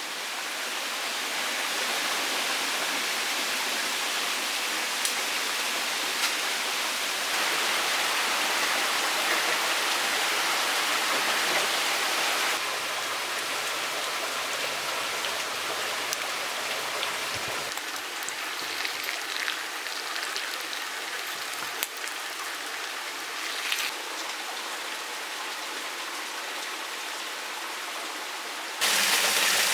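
Steady rush of running water from a forest stream, with a few faint clicks and sudden changes in level where the shots change, about 7, 12 and 29 seconds in.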